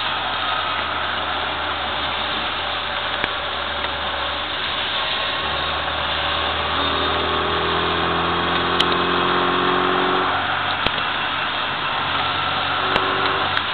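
Inside the cabin of a 1998 Mini Cooper: its 1275 cc A-series four-cylinder engine running at speed over steady tyre and spray noise on a wet track. About five seconds in a firmer engine note comes in and holds, then drops away sharply just after ten seconds. A few sharp clicks fall near the end.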